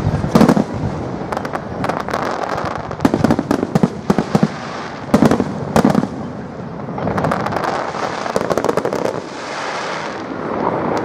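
Fireworks display: aerial shells bursting with loud bangs, one right at the start and a run of several between about three and six seconds in, amid rapid crackling; later a denser stretch of crackle and hiss.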